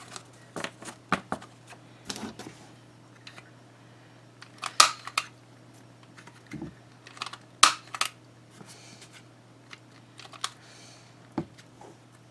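Clicking and light paper handling from a We R Memory Keepers paper-edge tool cutting a curvy edge along the bottom of paper pages. There are two sharp, loud clacks of the tool, a little under halfway and about two-thirds through, among lighter clicks, over a faint steady hum.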